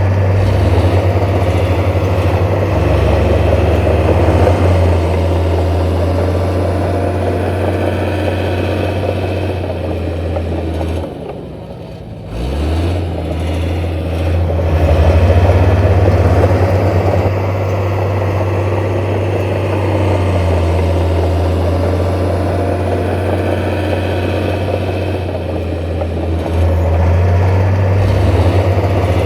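Heavy diesel engine of construction machinery running with a loud low drone. Its load drops briefly about eleven seconds in, then it picks up again and runs steadily.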